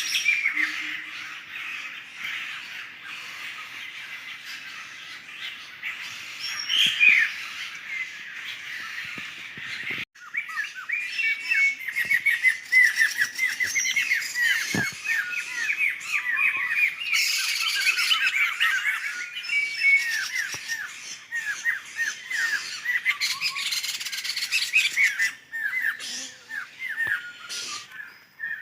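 A flock of laughingthrushes calling together, a busy chatter of rapid repeated notes. The calls are sparse at first, break off briefly about ten seconds in, then come back as a thick, continuous chorus.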